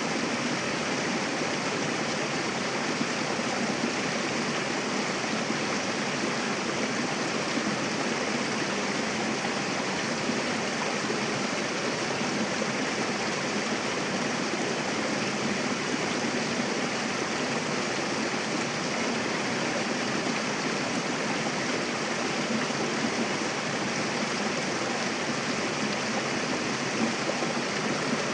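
Mountain river rushing steadily over rocks, a continuous even water noise with no lulls or surges.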